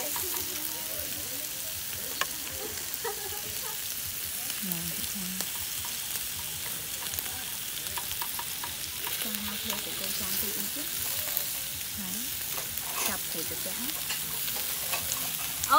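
Food sizzling as it fries in a pan, a steady hiss with occasional scraping clicks of stirring.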